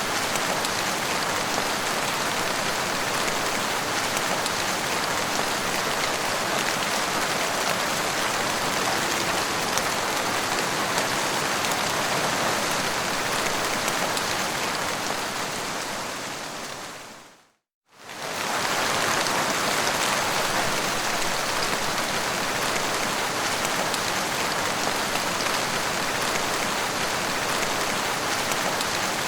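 Steady, heavy rain falling, a dense even hiss. Partway through it fades out to a moment of silence and comes straight back in, like a loop or edit point.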